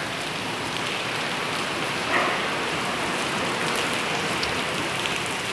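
Heavy rain falling steadily and evenly on surfaces.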